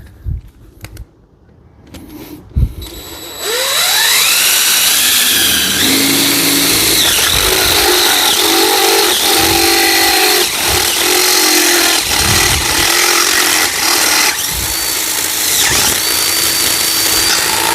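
Power drill spinning up with a rising whine a few seconds in, then running a step drill bit through a thin metal plate, its motor pitch dipping again and again as the bit bites into the metal. A single knock comes just before the drill starts.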